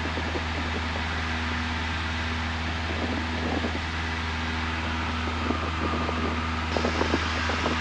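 Cessna 172N's four-cylinder Lycoming engine and propeller droning steadily in cruise flight, with an even low hum and no change in pitch.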